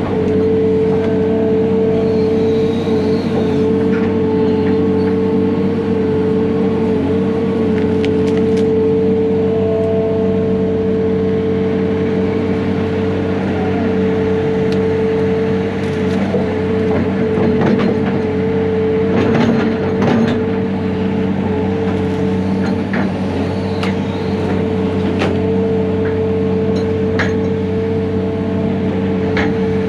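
Heavy equipment's diesel engine running steadily, with a strong steady whine over it and scattered short knocks and clanks.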